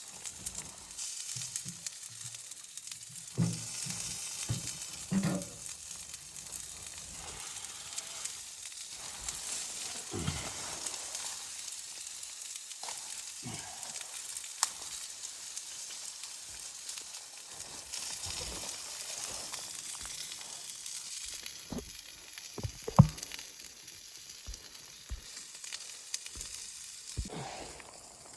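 Food sizzling as it fries in a pan, a steady hiss with scattered knocks and scrapes of a utensil stirring, the sharpest knock near the end.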